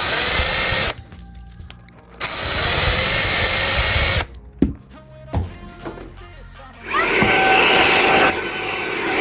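Small electric power tool running in three bursts, each starting and stopping abruptly; in the last one its motor whine rises quickly and then holds steady.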